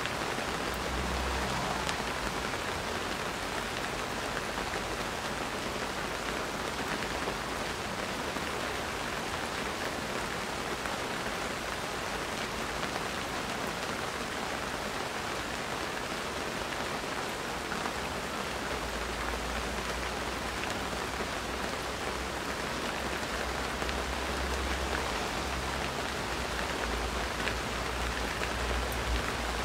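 Steady rain falling on garden plants and plastic planters, an even hiss with scattered drop ticks.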